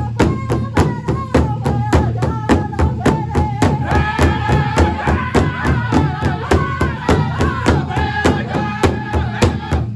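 Pow wow drum group playing: several drummers striking a big drum together in a steady beat of about four strokes a second, with high-pitched singing held over it.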